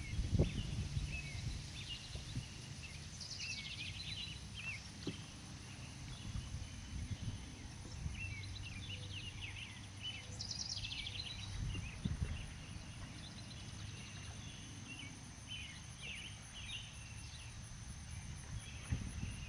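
Songbirds chirping and giving quick trills on and off, over a steady low outdoor rumble.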